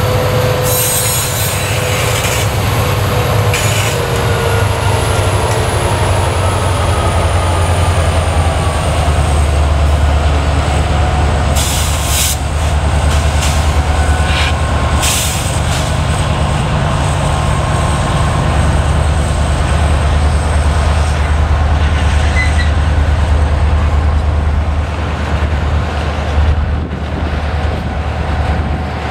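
Freight train passing close by: diesel-electric locomotives run past with a deep engine hum and tones that fall in pitch as they go by, then freight cars roll past with steady wheel-on-rail noise. A few short, sharp, high noises cut in about halfway through.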